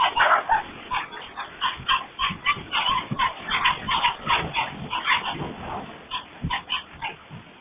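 A dog barking rapidly, short calls about three a second, easing off near the end, over a steady rushing background noise.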